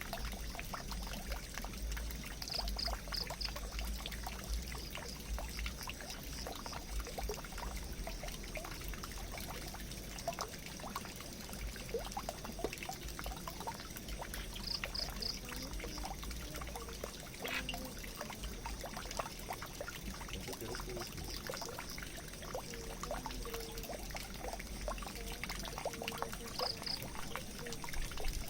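Water pouring and trickling steadily into a drain, with many small drips and splashes. A short high triple chirp comes three times, about three seconds in, midway and near the end.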